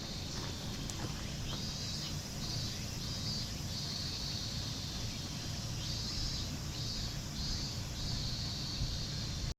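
Insects singing in repeated high-pitched pulsing phrases with short gaps, over a steady low rumble.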